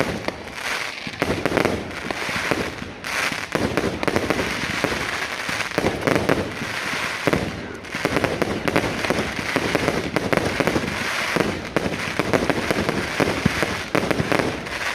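Fireworks going off without pause: rapid crackling and popping with louder bangs among them.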